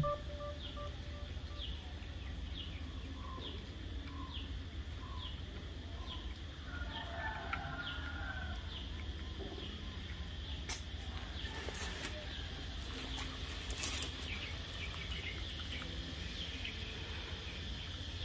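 A bird in the background calling in a run of short, high, falling chirps, about one a second, fading out around halfway through, over a steady low hum and a few faint clicks.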